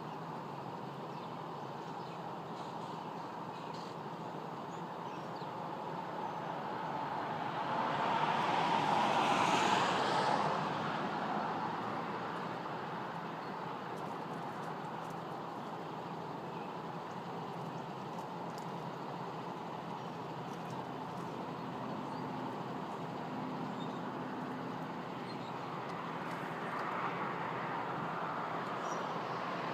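Steady road traffic noise, with one vehicle passing that swells and peaks about eight to ten seconds in, then fades, and another coming up near the end.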